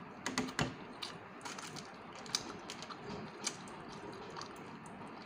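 Close-up eating sounds: soft, irregular wet clicks and smacks of a person chewing pancit noodles and fish, a quick cluster of them in the first second and single ones scattered after.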